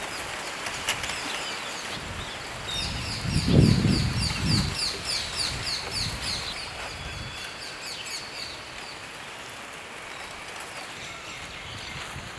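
A bird calling a rapid series of short, high, falling notes, about four a second, from about three seconds in to past the middle, over steady outdoor background noise. A low rumble about three to five seconds in is the loudest sound.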